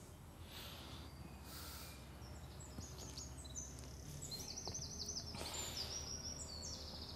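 Songbirds singing faintly: short high chirps and quick repeated trills, over a steady low outdoor background rumble.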